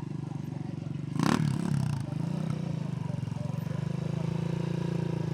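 A vehicle engine running with a rapid, even pulse, briefly revved about a second in before settling back.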